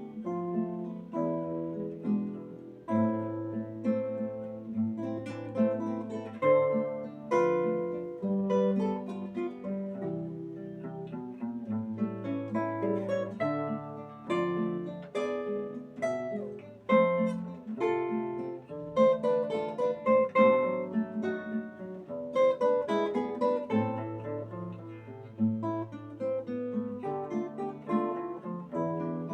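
Acoustic guitar played solo: a plucked melody over ringing bass notes, with chords struck now and then.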